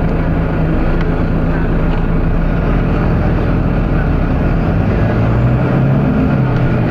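Volvo B9TL double-decker bus's diesel engine running with a steady low drone; about five seconds in a deeper note swells and holds until near the end.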